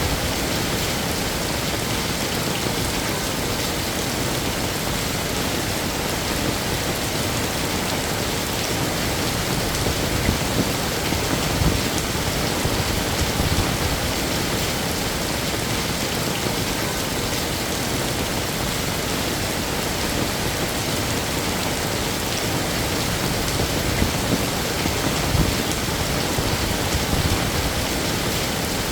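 Heavy rain falling steadily on hard surfaces, a dense, even hiss with occasional louder drops and splashes.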